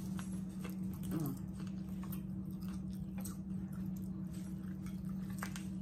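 Close-up mouth sounds of people chewing fried catfish, with soft wet smacks and small clicks as fingers pick meat off the bones. A steady low hum runs underneath.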